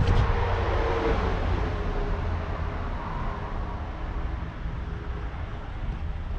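Strong wind buffeting the microphone, a steady low rumble with a gust swelling about a second in and easing off.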